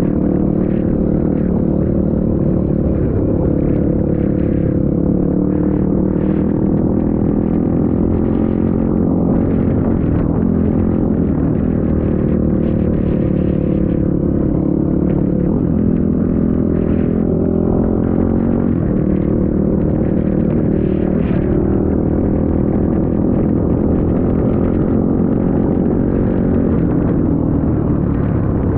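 Trail motorcycle engine running under way, its pitch rising and falling as the throttle changes, over a steady low rumble.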